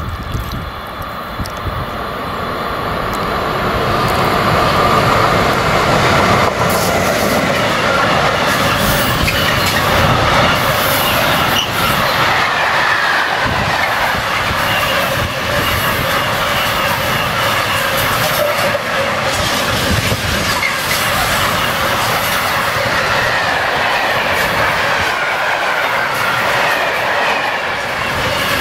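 Long container freight train rolling past close by: a steady, loud noise of wagon wheels on the rails that builds over the first few seconds and then holds, with scattered clicks from the wheels.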